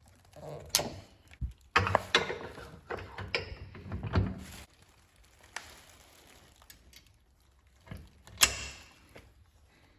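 Irregular metallic clicks and knocks of a generator wheel being fitted onto its spindle and an R-clip pin being snapped in, with the sharpest click near the end.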